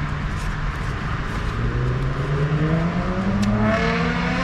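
Motorway traffic with a steady rush of tyres, and from about a second and a half in an engine climbing slowly in pitch as a vehicle accelerates.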